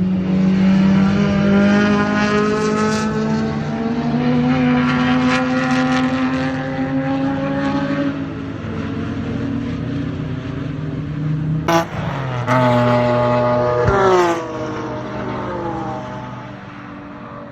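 BMW M3 race car engine running hard on track. Its pitch climbs slowly for about eight seconds, then eases off. About twelve seconds in there is a sharp click, a short climb, and then the pitch falls away as the car slows.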